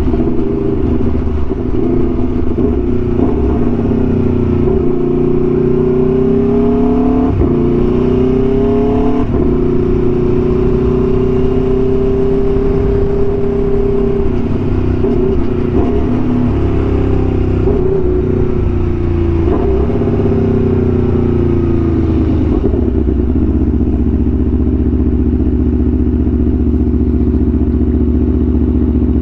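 Aprilia Tuono V4 1100's V4 engine through an SC-Project exhaust, heard from the moving bike: the engine note rises and falls with the throttle, broken sharply several times as it shifts, then settles to a steady note about 23 seconds in.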